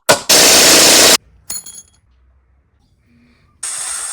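Workshop tool sounds: two sharp knocks, then about a second of loud power-tool noise that cuts off abruptly. A few light clinks with a short ring follow, and a steadier tool noise starts near the end.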